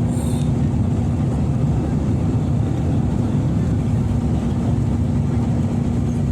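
Airliner cabin noise on approach: a steady low drone of engines and airflow with a constant hum.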